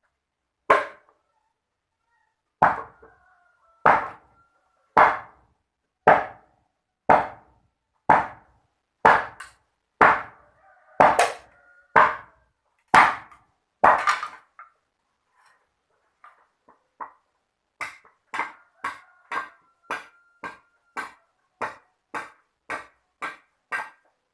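A series of sharp knocks, about one a second; after a short pause near the middle, lighter and quicker knocks, about two a second.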